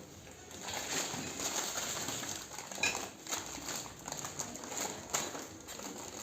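Rustling and light knocks of groceries being handled and set down, with a short clink about three seconds in.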